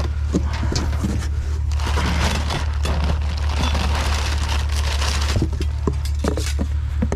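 Rummaging through a pile of discarded items and cables: irregular rustling, knocks and clattering of objects being moved, over a steady low rumble.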